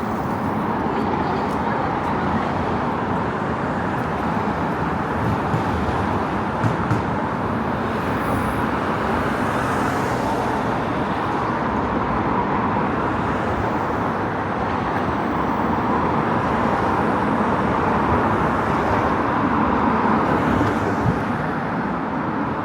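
Steady city road traffic noise: the continuous hum of passing cars, with no single vehicle standing out.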